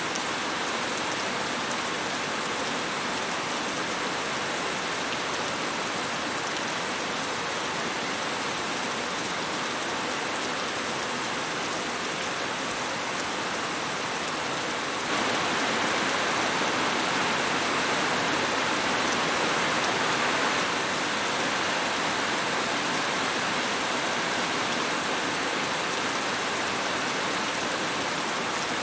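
Steady rain falling, an even hiss of drops with no other sounds; it turns suddenly louder about halfway through, then eases a little.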